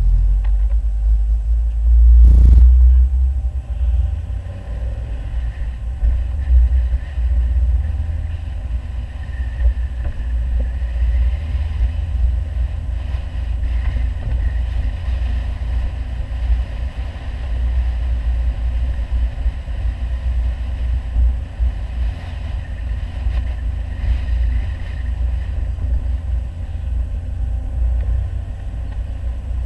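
An Audi 100 2.3 quattro's five-cylinder engine and aftermarket CAC exhaust running on the move, a deep steady rumble, with one loud thump about two and a half seconds in.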